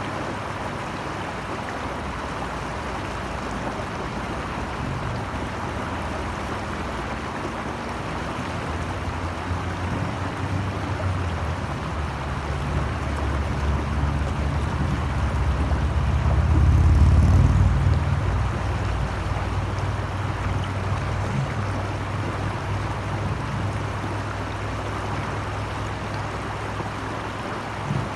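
Steady rushing of flowing water, with a low rumble underneath that swells to its loudest about two thirds of the way through and then fades.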